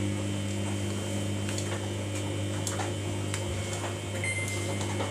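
Samsung washing machine running while it heats its wash water, giving a steady hum with scattered faint ticks. A brief high tone sounds about four seconds in.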